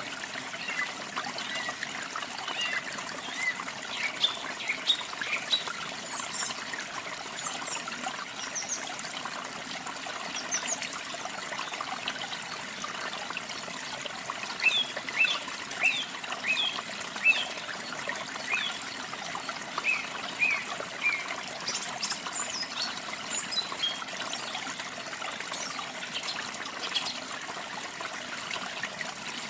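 Running water trickling steadily, with small birds giving short high chirps over it, busiest about halfway through.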